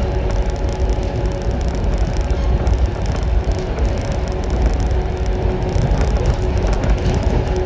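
Running noise inside a JR 115 series electric train under way: a steady rumble of wheels on rail with steady humming tones from the train's drive, which weaken in the middle and come back near the end.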